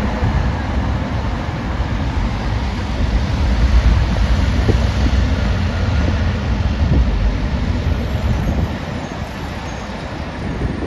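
Heavy road traffic passing at speed, a low engine-and-tyre rumble that swells to its loudest in the middle and fades away after about eight seconds, like a truck going by.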